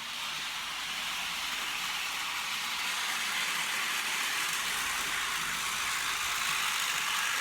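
HO scale model train locomotive running along the track: a steady whirring hiss of its small motor and wheels on the rails.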